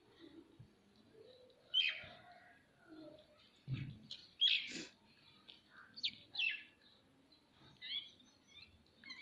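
Indian ringneck parakeet giving short, sharp chirping calls, about five of them spaced a second or two apart, with fainter low sounds in between.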